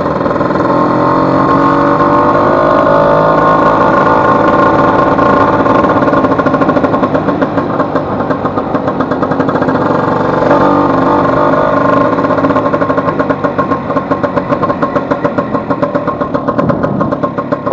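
Vespa 150's two-stroke single-cylinder engine running under way, revving up with rising pitch over the first few seconds, then settling to a slower, pulsing beat near the end as the scooter slows. The engine has a newly replaced elastic pinion and is running well.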